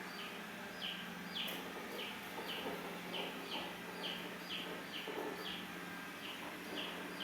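A bird chirping over and over, short falling calls about twice a second, over the steady low hum of a robot vacuum running.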